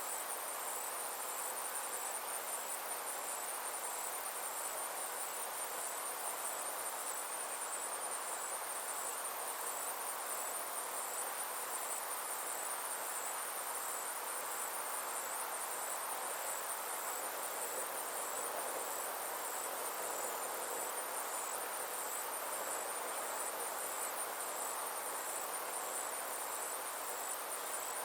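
Steady chorus of insects trilling high and continuously, a fine rapid pulsing that never stops, over a soft even hiss.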